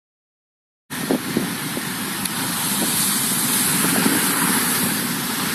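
Toyota FJ40 Land Cruiser running, a low engine rumble under a loud steady hiss, with a few short knocks just after the sound starts about a second in.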